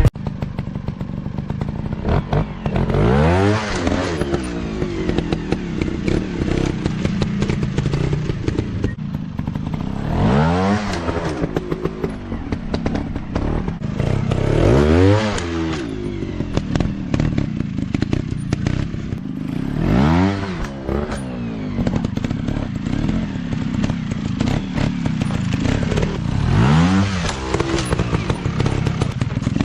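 Dirt bike engines running throughout, revved hard about five times, each time the pitch climbing and dropping back, with clattering over rough ground.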